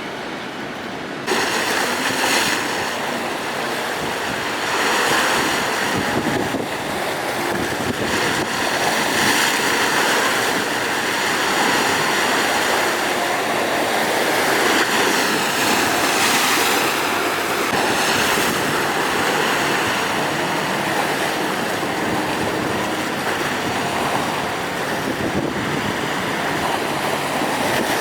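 Rough sea in strong wind: waves surging and breaking in a loud, even rush that swells and eases every few seconds. It steps up abruptly about a second in.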